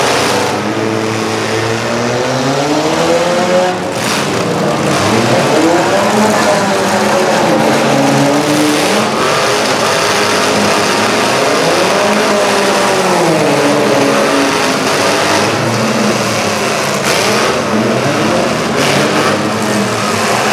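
Several demolition derby cars' engines revving hard, their pitch rising and falling over and over as the cars drive and ram around the arena.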